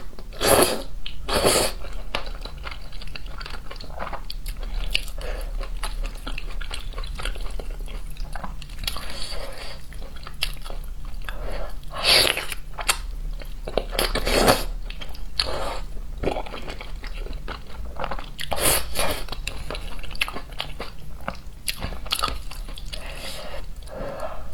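Close-miked eating: a person biting and chewing crunchy food, with a steady run of small crackles and several louder bites spread through.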